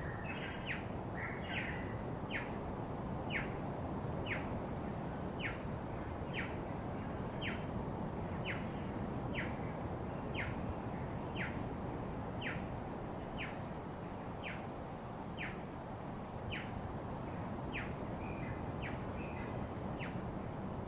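A bird repeating a single short, falling whistle about once a second, with brief chattering calls from other birds near the start and again near the end. Under it run a steady high-pitched whine and a low rushing background noise.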